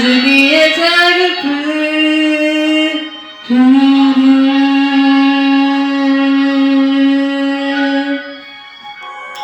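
Song ending: a singer slides up into a held note, breaks briefly about three seconds in, then holds one long steady final note for about four and a half seconds over the accompaniment, which fades near the end.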